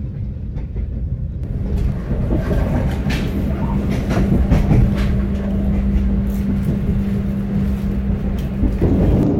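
Passenger train heard from inside the coach while running: a steady low rumble with scattered knocks and rattles. A steady low hum joins about two and a half seconds in and drops out shortly before the end, when the running noise grows louder.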